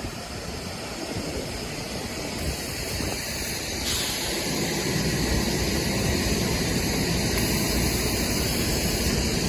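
Car moving along: steady road and engine noise that grows louder about four seconds in.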